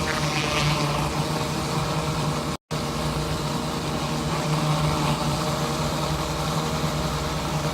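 Pressure washer engine running steadily under load, with the hiss of water spraying from the surface cleaner onto concrete. The sound drops out abruptly for a moment about two and a half seconds in.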